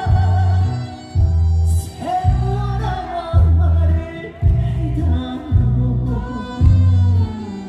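A crowd of fans singing together to a trot song over amplified backing music, with a heavy bass beat about once a second.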